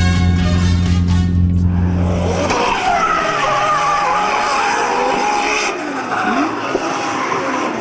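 Music with a steady low hum that stops about two and a half seconds in, followed by car tyres squealing in long, wavering squeals, as from cars drifting.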